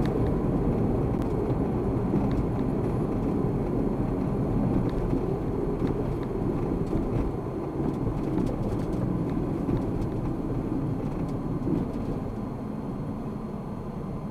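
Car road and engine noise heard from inside the cabin while driving, a steady rumble that eases off slightly near the end.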